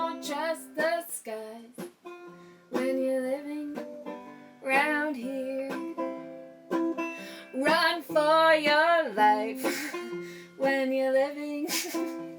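Acoustic plucked-string instrument playing a song's accompaniment, with a wavering sung or hummed line about two thirds of the way through.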